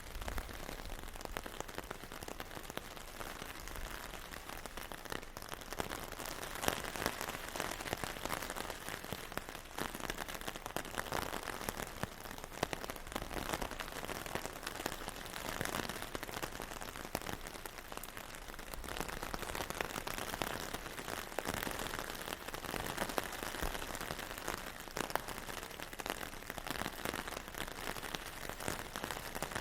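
Steady rain falling, a dense patter of drops on a surface that swells and eases slightly.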